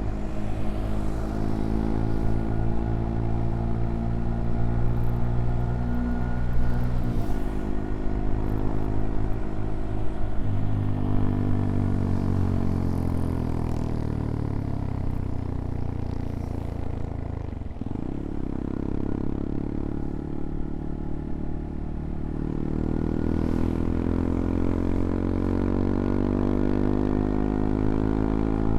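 CFMoto Papio XO-1's single-cylinder engine under way, its pitch changing with throttle and gears. It drops in pitch as the bike slows toward the middle, then climbs steadily as it accelerates again.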